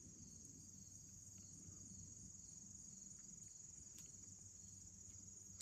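Faint, steady high-pitched chorus of insects, with a single sharp click near the end.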